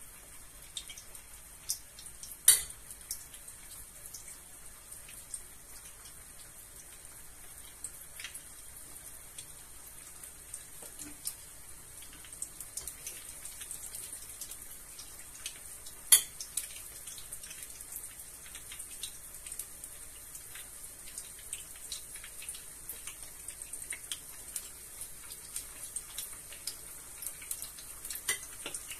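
Small meatballs frying in hot oil: a steady sizzle with fine crackles, broken by two sharp knocks, one about two and a half seconds in and one about sixteen seconds in.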